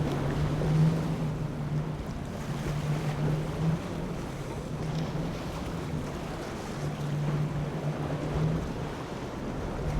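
Motorboat engine running with a steady low hum that fades in and out, over waves and wind on the microphone.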